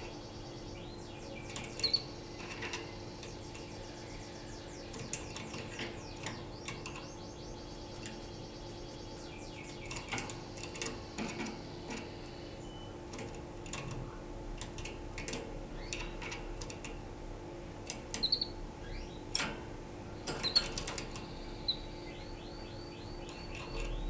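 Domestic canary singing in runs of rapidly repeated high notes, with sharp clicks and knocks scattered among them, over a steady low hum.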